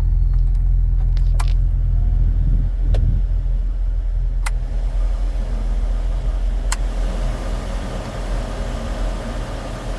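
A 2000 Jeep Wrangler's heater/AC blower fan being switched through its speeds, its rush of air growing stronger from about halfway in, with a few sharp clicks of the control. The engine idles steadily underneath.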